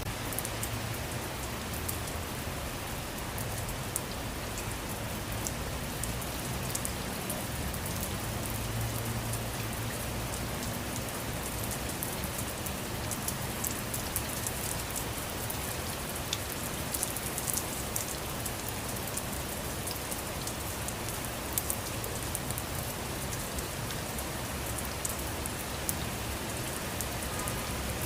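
Steady rain falling on a surface, a continuous hiss scattered with small drop ticks.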